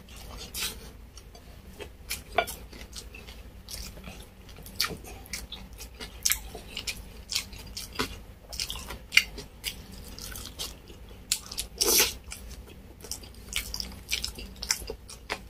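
A person chewing and biting into deep-fried beef crispy pata: irregular crunches and wet clicks of mouth and fingers, with a louder crunch about twelve seconds in.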